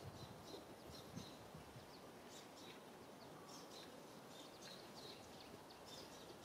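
Near-silent outdoor ambience: a faint steady hiss with scattered brief, high chirps from small birds.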